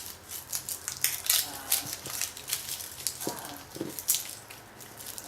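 Light, irregular clicks and taps of smashed garlic cloves being peeled and handled.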